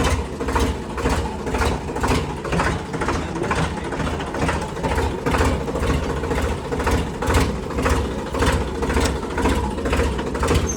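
Tractor diesel engine running steadily, with a regular knocking beat about two to three times a second over a low rumble.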